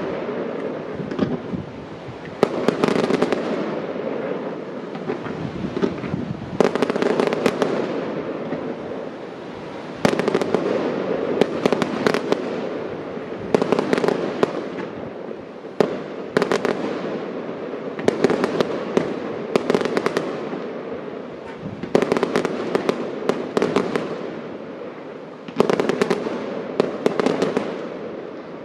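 Fireworks display: shells bursting one after another, a sharp bang every one to two seconds, often in quick clusters, each trailing off slowly.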